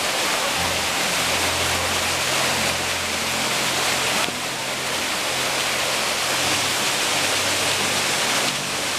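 Waterfall: falling water rushing as a loud, steady noise, easing slightly about four seconds in.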